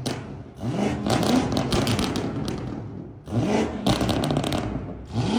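A high-performance car engine revving hard twice, each time rising quickly in pitch and then fading as the revs drop away.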